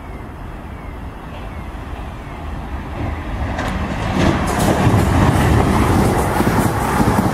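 Two coupled Class 444 electric multiple units running past close by. The noise grows louder from about three seconds in and becomes a loud, steady run-past with quick clicks of wheels over rail joints.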